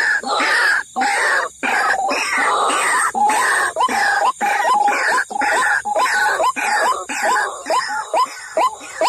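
White-breasted waterhens (ruak-ruak) calling: a loud, harsh run of repeated croaking notes, settling near the end into a regular series of short rising notes, about two or three a second. This is the bird's territorial call, used as a lure call to draw the birds in.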